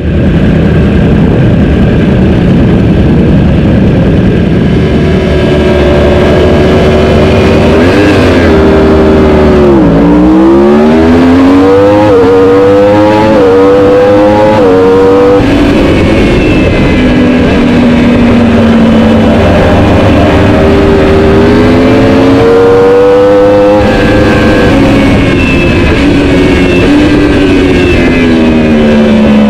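Racing superbike engine. It runs as a steady rumble for the first few seconds, then revs hard from about eight seconds in, the pitch climbing in steps with quick drops at the gear changes. Later the pitch falls away, climbs again and falls near the end.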